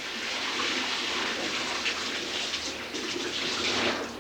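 A steady rush of water pouring and splashing, a mock downpour of rain, that stops abruptly about four seconds in.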